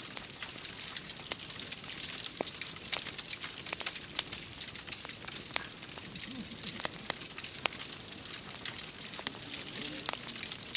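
Wood fire crackling in a fireplace: irregular sharp pops and snaps, several a second, over a steady hiss.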